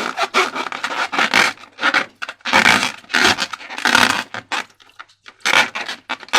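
Slime being worked by hand: a run of short, irregular sticky rubbing and scraping strokes, several a second, with a brief lull about five seconds in.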